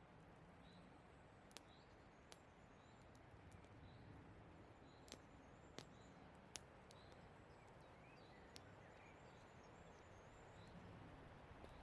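Faint campfire crackle: burning wood giving about half a dozen sharp pops scattered through a quiet forest background, with faint high bird chirps repeating about once a second.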